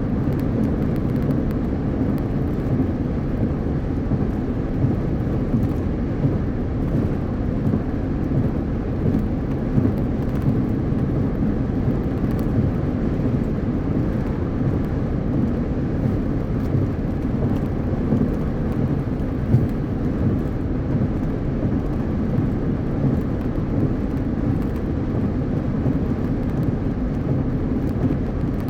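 Steady road noise of a car driving at highway speed: a low, even rumble of tyres and wind with no change in pace.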